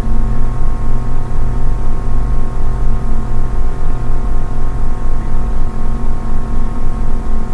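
A steady low drone made of several held tones, pulsing about three times a second.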